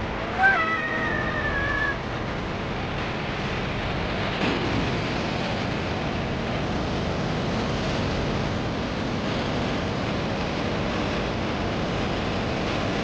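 A cat meowing once, a drawn-out call about half a second in, over a steady rushing noise.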